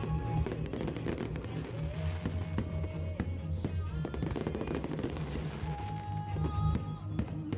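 Fireworks bursting and crackling in quick succession over loud music with heavy bass.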